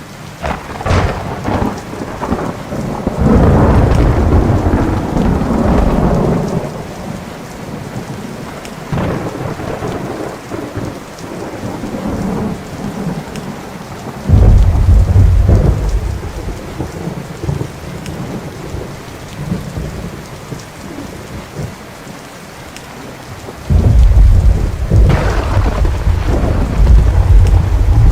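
Thunderstorm: steady rain with repeated thunder. A crackling clap just after the start swells into a long rumble. A deep rumble breaks in suddenly about halfway through, and another starts near the end.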